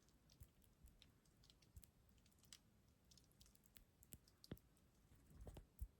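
Near silence with a scattering of faint, short ticks and clicks, a few more of them near the end.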